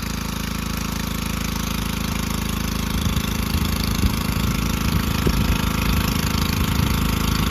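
Small engine-driven water pump running steadily while it fills a steel tank that is nearly full, with scattered irregular knocks from about three seconds in.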